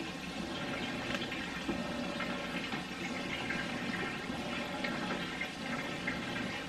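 Panko-and-Parmesan-crusted chicken tenders frying in oil in a pan: a steady sizzle with fine crackles.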